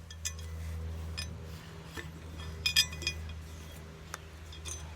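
A handful of light metallic clinks and knocks, the loudest about three seconds in, from the slotted metal guide plates and level being handled, over a steady low hum.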